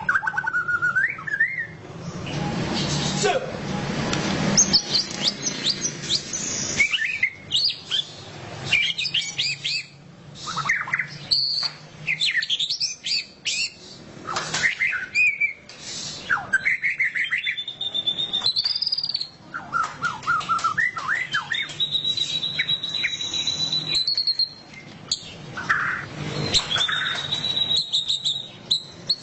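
White-rumped shama singing loudly: a varied song of clear whistled glides, long held high notes and rapid chattering runs, the 'ngeriwik' style. A stretch of broad rushing noise sits under the song about two to five seconds in.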